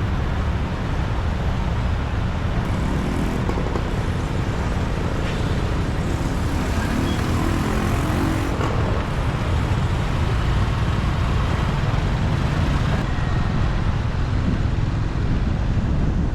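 Steady engine and traffic noise from a motorbike riding through city streets, with a continuous low rumble.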